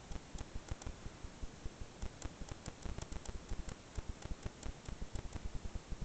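Irregular light clicks and rustling, several a second, over soft low thumps.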